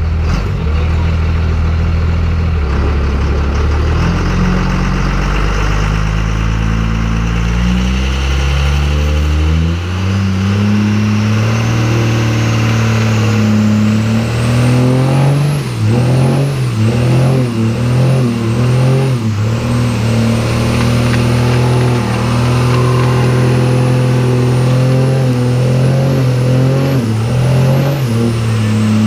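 Diesel pickup truck engine held at high revs during a burnout. The pitch climbs in steps over the first several seconds, then stays high, surging up and down for a few seconds in the middle.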